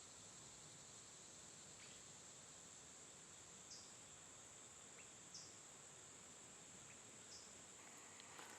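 Faint, steady high-pitched insect chorus, like crickets, with three short faint chirps about two seconds apart in the middle.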